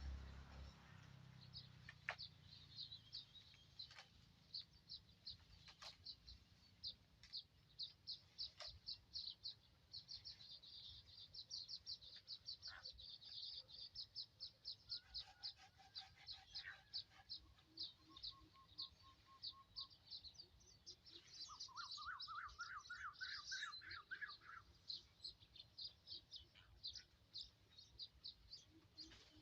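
Faint birdsong: rapid, high chirps repeating throughout, with a separate lower, fast trilling call about three-quarters of the way through, and a few faint clicks in the first third.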